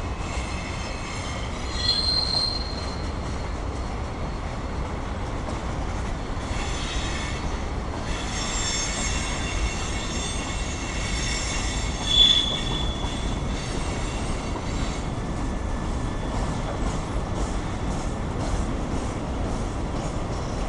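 Freight train cars rolling past with a steady rumble, their steel wheels squealing against the rails in high-pitched spells that come and go, sharpest about two seconds in and about twelve seconds in.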